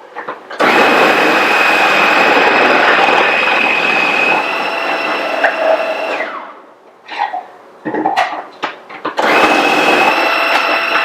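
Food processor motor chopping raw beets in two long runs with a steady high whine, each winding down at the end. A few short knocks and clatters come in between the runs.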